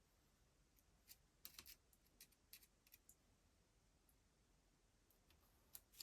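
Near silence broken by a few faint, sharp clicks: a cluster of about a dozen between one and three seconds in, and two more near the end.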